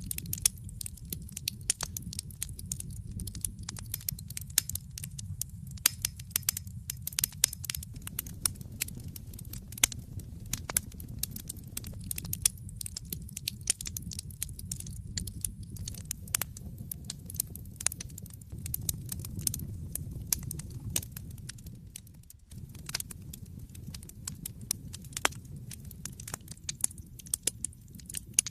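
Wood fire in a fireplace crackling and popping steadily, with many sharp irregular snaps over the low rumble of the flames.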